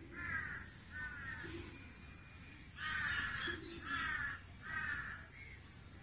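A bird giving five harsh, caw-like calls: two close together, then, after a pause, three more about a second apart.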